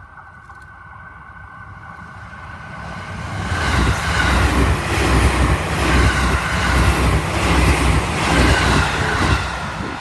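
Limited express electric train passing a level crossing close by, its wheels clattering in an even rhythm over the rail joints. The sound builds over the first few seconds, stays loud for about six seconds, and eases near the end.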